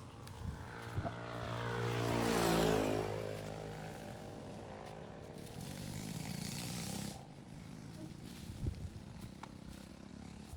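A motor vehicle drives past, its engine sound swelling to a peak about two and a half seconds in and then fading. A steadier rush of noise follows and stops suddenly at about seven seconds.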